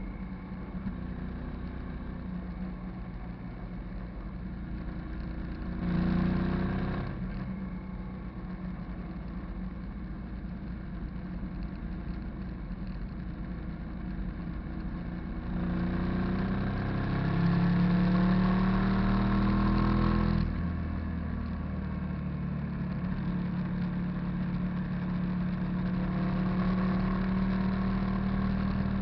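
Hyosung GV650 cruiser's V-twin engine running on a ride, with a short burst of throttle about six seconds in and a longer pull from about sixteen to twenty seconds in as the pitch rises, before it eases back to a steady note.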